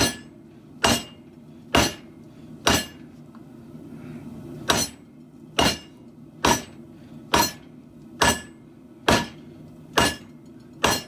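Hand hammer striking the steel of a katana blade being forged: twelve blows, about one a second, each with a short metallic ring, with a pause of about two seconds after the fourth blow.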